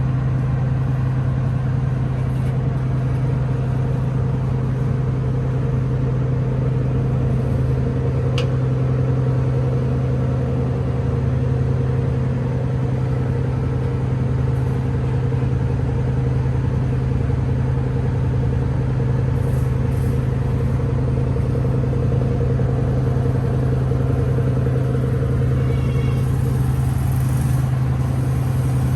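An engine running steadily at constant speed, a loud even low drone.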